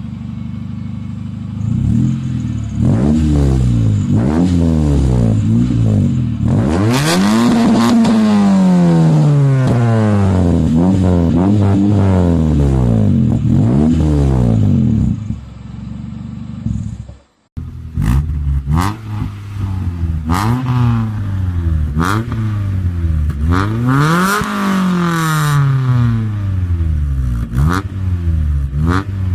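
Exhaust of a sixth-generation Honda Civic's four-cylinder engine being revved again and again while standing, each rev rising and falling back toward idle. It cuts off abruptly about halfway through, then the revving resumes, with a few sharp clicks.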